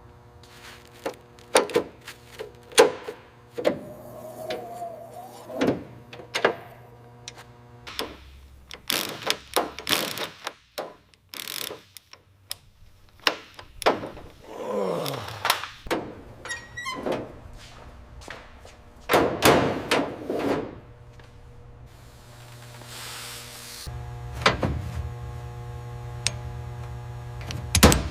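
Workshop handling sounds: a long, irregular string of knocks, clunks and clicks, as of tools and metal car parts being set down and worked, with a couple of short scrapes. Steady background music runs under it.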